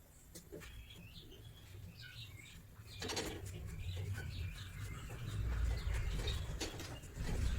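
Birds calling in short chirps over a low rumble that grows louder partway through.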